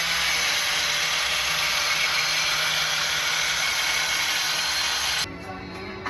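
A power tool running steadily with a dense, even hiss, cutting off suddenly about five seconds in.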